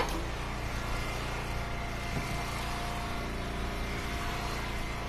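Engine of an Eastonmade hydraulic wood splitter running steadily, with one sharp knock right at the start.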